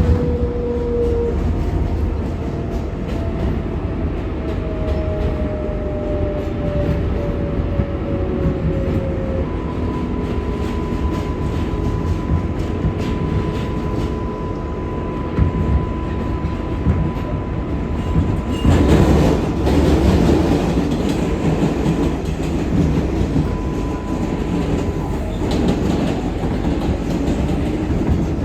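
R188 subway car running at speed, heard from inside: a steady rumble of wheels on rail with clicking over the rail joints, and thin motor whine tones that slide in pitch and then hold. The rumble grows louder about two-thirds of the way through.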